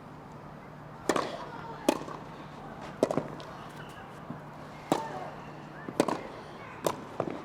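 Tennis rally: a ball struck back and forth with rackets, sharp pops roughly once a second, seven or so, with the last two coming quickly near the end as the point finishes on a hard backhand drive.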